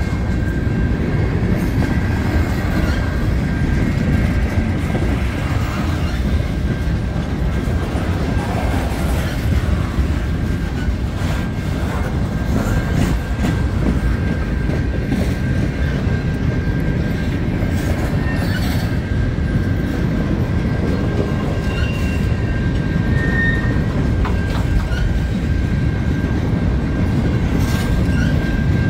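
CN mixed freight train's cars rolling past at a level crossing: a steady heavy rumble with wheel clicks over the rail joints. A thin steady high tone runs through it, typical of steel wheels squealing on the rail.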